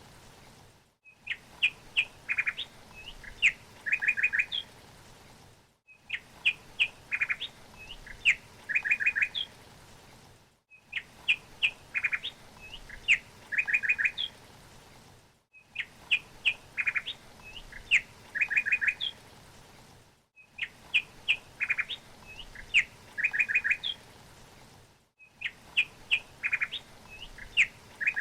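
A songbird chirping: a few sharp high chirps followed by a quick trill, with the same short recording looped about every five seconds and a brief silent gap between repeats.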